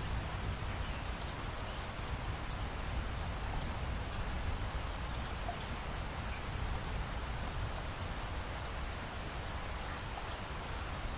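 Steady rainfall: an even hiss with a low rumble underneath and occasional faint drop ticks.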